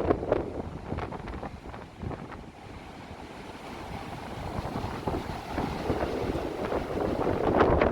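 Strong wind gusting and buffeting the phone's microphone. It eases in the middle and builds again toward the end.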